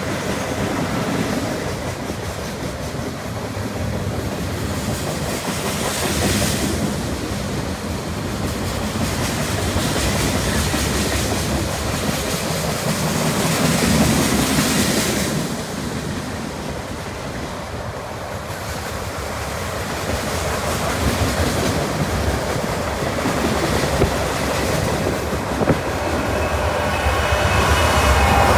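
Long freight train of loaded gondolas, tank cars and boxcars rolling past, with a steady rumble and wheel clatter on the rails, swelling and easing as the cars go by.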